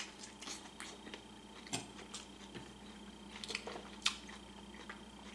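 A person chewing a mouthful of fish taco: scattered soft, wet mouth smacks and small clicks, with one sharper click about four seconds in.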